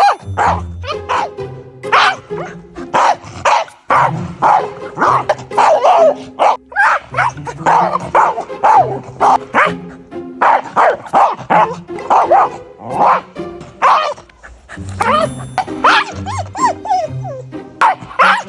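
A dog barking and yelping over and over, with background music underneath.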